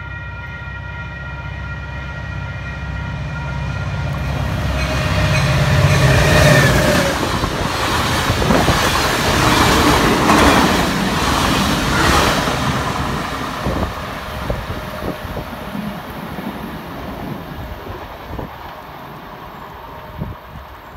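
Caltrain passenger train passing through the station at speed without stopping. Its horn sounds steadily as it approaches and drops in pitch as the head end passes about six seconds in. A loud rush of wheels and passing gallery cars follows, with rapid wheel clicks, then fades away as the train recedes.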